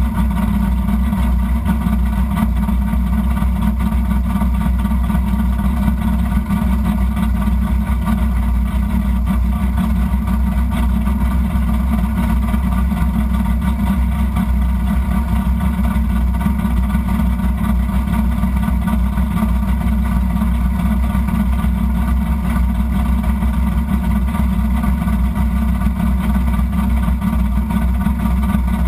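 Drag car's engine idling steadily, heard from inside the cabin.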